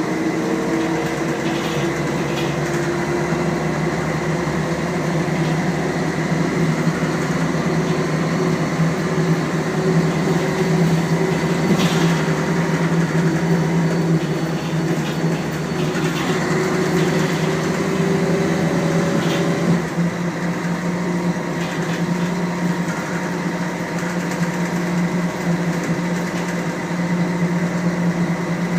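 Scania L113CRB bus's rear-mounted diesel engine running under way, its note climbing slowly for most of the time, then changing with a brief dip about twenty seconds in as the ZF automatic gearbox shifts. A few clicks from the body rattling.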